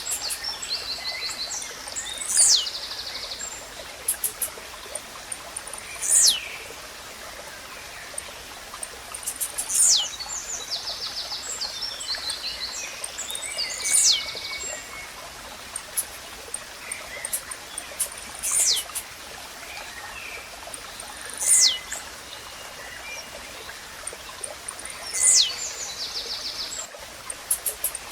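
Blue-black grassquit (tiziu) singing its short, sharp song note about every four seconds, each note a quick downward sweep from high to lower pitch. Between the notes other small birds chirp and trill over a steady, water-like hiss.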